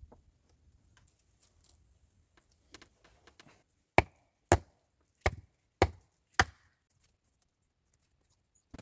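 Five sharp chopping strikes about half a second apart, a little after the middle, preceded by a few faint knocks.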